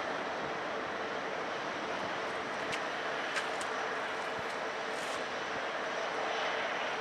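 Steady rushing noise of jet airliner engines at an airport, with a held hum throughout. There are a few brief high clicks about three seconds in and again near five seconds.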